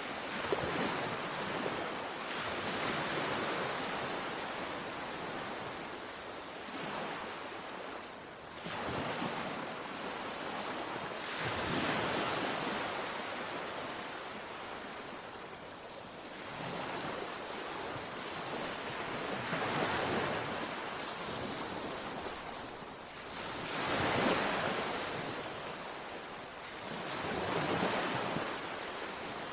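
Sea waves breaking and washing on a shore, swelling and fading every four to five seconds, with some wind on the microphone.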